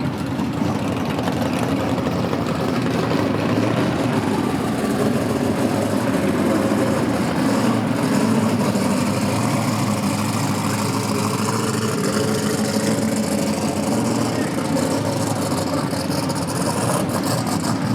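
Car engines idling and running at low speed, a steady low drone with no clear revs or breaks.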